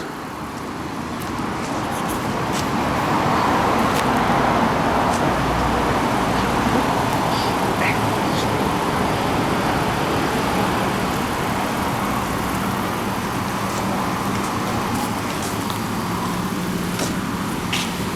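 Automatic in-bay car wash running: a steady rushing hiss of water spray that builds over the first few seconds and then holds, while a car creeps forward into the bay.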